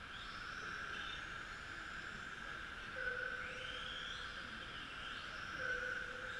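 Electric motors and gears of radio-controlled Tamiya TT-01E touring-chassis model trucks whining as they race, with a steady whine that swells every couple of seconds and several rising whines as cars accelerate.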